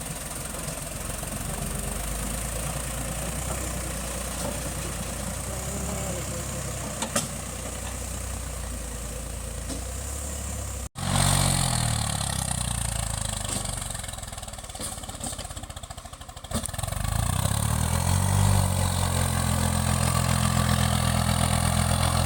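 A tractor's diesel engine running steadily. About halfway through the sound breaks off abruptly and comes back louder. The engine then dies down for a moment, revs up near the end and holds a steady, higher note.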